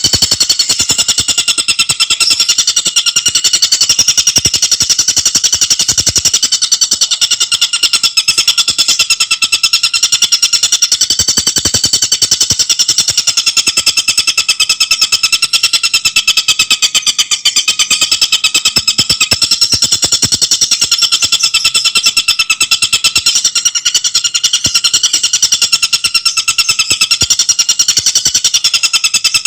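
Tengkek buto bird singing a continuous, very fast rattling trill of high, clear notes, unbroken and even in pace: the tight 'speed rapat' song used as a masteran for training songbirds.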